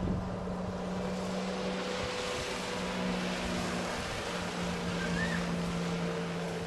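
Watercraft engine running steadily over water and wind noise, its pitch shifting slightly about four seconds in.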